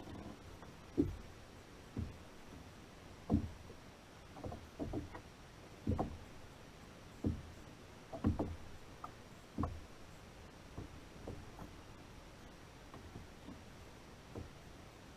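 Irregular dull knocks and bumps on a kayak's hull, about one a second and sometimes several close together.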